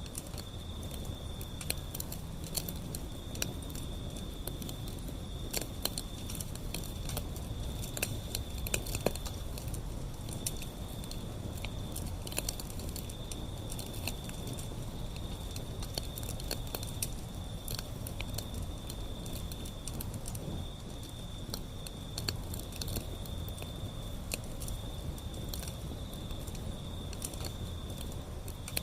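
Wood fire burning, with irregular sharp crackles and pops over a low rumble of flames. A steady high-pitched trill runs behind it with brief breaks.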